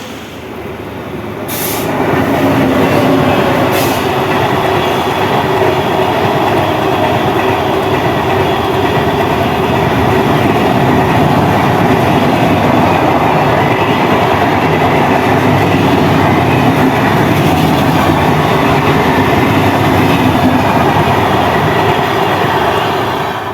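MEMU electric multiple-unit train running along the track: a loud, steady rumble of wheels on rails that swells about two seconds in, with two sharp clicks near the start.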